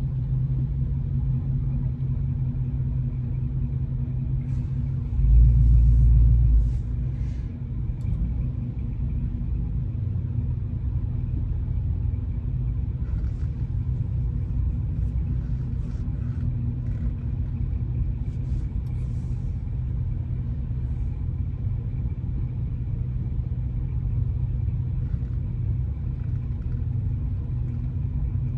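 Steady low engine and road rumble inside a car's cabin while driving slowly. About five seconds in, a deeper, louder rumble swells for about a second and a half, then settles back.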